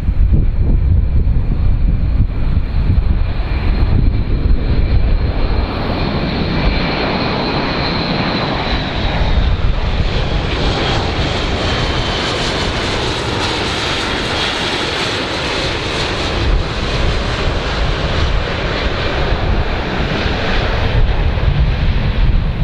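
Airplane engines running, a loud steady rush and low rumble with a high engine whine that slides slowly down in pitch partway through.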